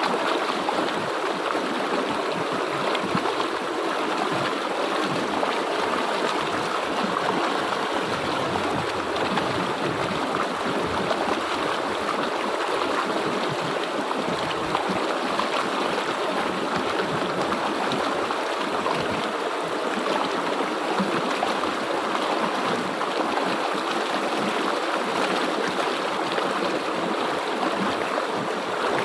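River water flowing and gurgling over rocks in a steady rush, with no change throughout.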